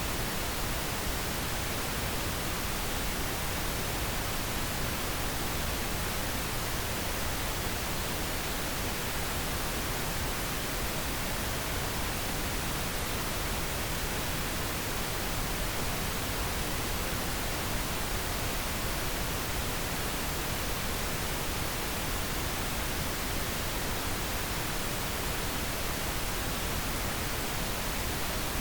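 Steady pink noise: an even, unbroken hiss spread across the whole range from low to high, with no changes.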